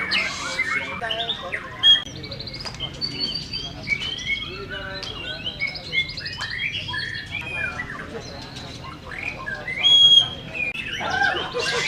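Songbirds chirping and whistling in a quick, varied stream of overlapping calls, with a loud, clear whistle about ten seconds in.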